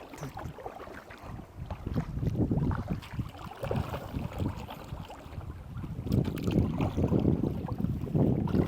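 Wind buffeting the microphone with uneven gusts, mixed with water sounds around a kayak being paddled in to shore; the gusting gets louder about six seconds in.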